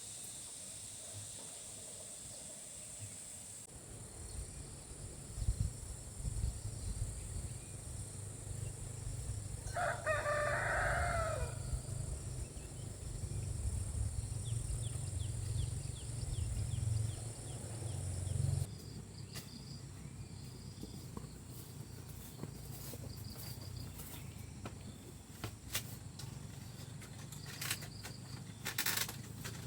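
A rooster crows once, about ten seconds in, over a low rumble that cuts off after about eighteen seconds; a few sharp clicks follow near the end.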